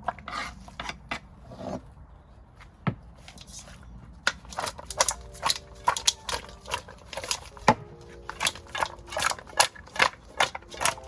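A knife chopping seasoning vegetables: a few scattered sharp knocks, then a quicker run of chops at about two a second from about four seconds in.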